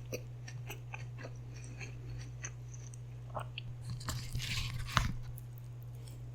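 Close-miked eating: chewing with small crunches and wet mouth clicks, then a short hissing mouth sound about four seconds in that ends in a sharp click near five seconds. A steady low hum runs underneath.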